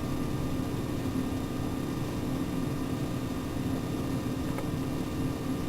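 Steady low machine hum and hiss of room tone, with one faint click about four and a half seconds in.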